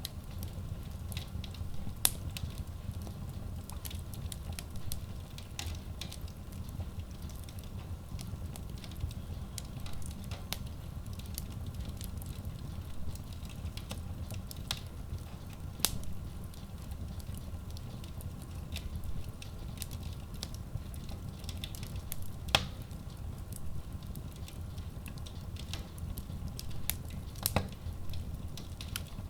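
Wood logs burning in a Kratki Koza K6 stove-fireplace: a steady low rumble of flame with irregular crackles and sharp pops, a handful of them louder than the rest.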